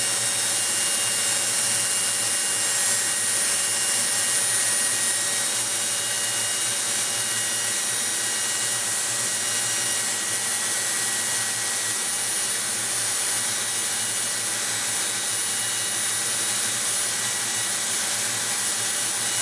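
Power drill running steadily at speed, winding old fishing line off a reel: a constant whirring with a steady high whine.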